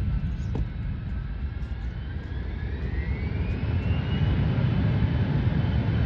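Jet airliner engines rumbling, with a whine that rises in pitch about two seconds in while the sound grows louder.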